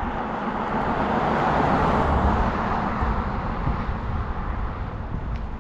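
A passing road vehicle: tyre and engine noise swells to a peak about two seconds in, then fades, over a steady low rumble.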